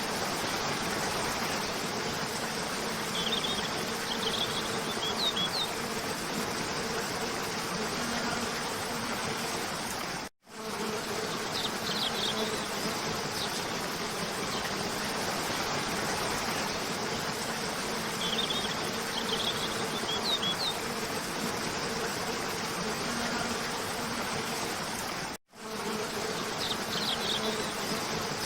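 Steady rushing of a cascading waterfall, with short bursts of high bird chirps every several seconds. The sound cuts out completely for an instant twice, about 15 s apart, where a looped recording restarts.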